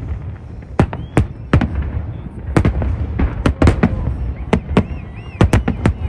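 Fireworks display: aerial shells bursting in a rapid, irregular string of sharp bangs, a dozen or more, over a steady low rumble.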